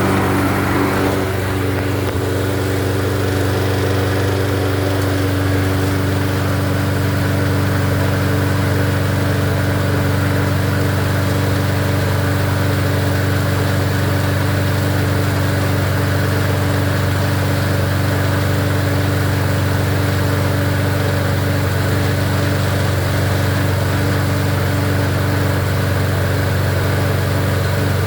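Toro 20340 lawnmower's 163cc single-cylinder engine running steadily at constant speed. There is no surging, with the carburetor and main jet freshly cleaned.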